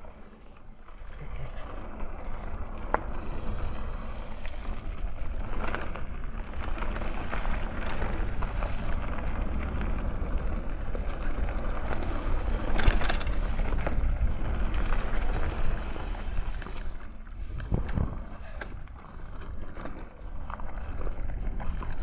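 Mountain bike riding a dirt trail: tyres rolling over the ground and the bike rattling over bumps, with wind buffeting the microphone. It picks up about a second in, with scattered knocks throughout.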